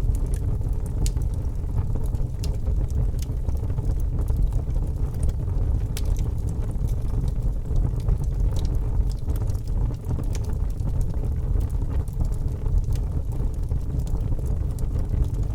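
Wood fire burning in a fireplace: a steady low rumble of flames with scattered sharp crackles and pops from the logs at irregular intervals.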